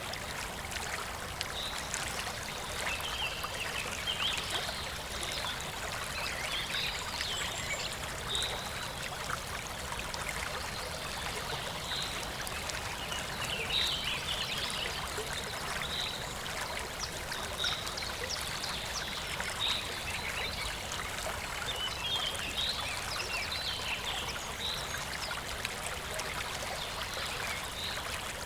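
Clear, shallow river babbling and trickling steadily, a continuous watery rush. Short high chirp-like notes recur about every two seconds through the second half.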